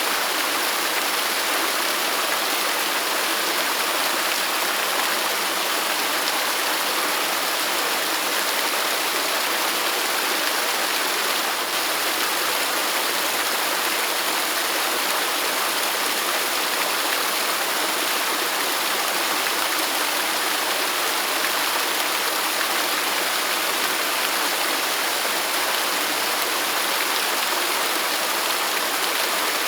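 Waterfall: a steady, even rush of falling water, with no music.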